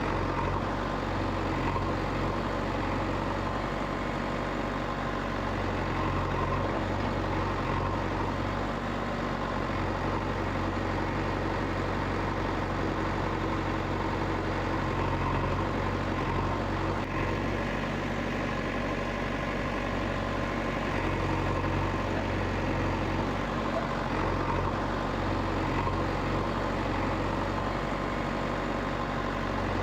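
A motor running steadily, with a low even drone that does not change.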